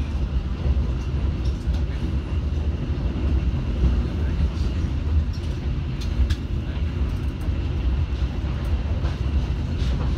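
Passenger train coach running at speed, heard from inside: a steady low rumble of the wheels on the rails, with a few light clicks and rattles.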